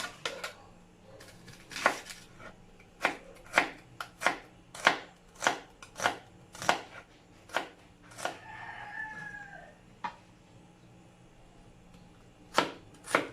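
A knife chopping chicken on a cutting board with a run of sharp chops about every half second. It pauses, then starts again near the end. A rooster crows once, a single drawn-out call, about two-thirds of the way through.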